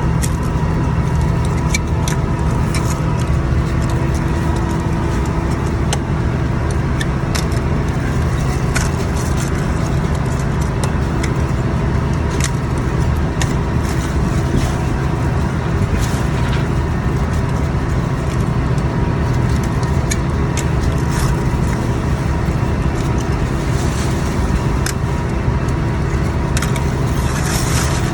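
Scallop boat's engine running steadily with a low, even drone, with scattered short clicks and knocks over it.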